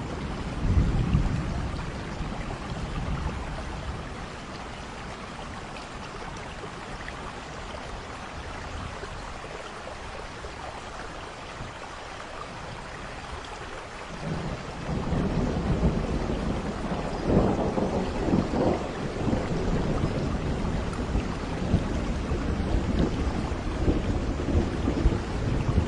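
Steady rain falling during a thunderstorm. A short rumble of thunder comes about a second in; about halfway through a long rolling rumble of thunder builds up and keeps going in repeated swells, loudest a few seconds after it starts.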